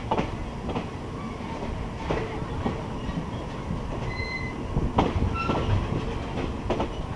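Passenger train running along the track: a steady low rumble with irregular knocks of the wheels over rail joints, and brief high-pitched wheel squeals about four and five and a half seconds in.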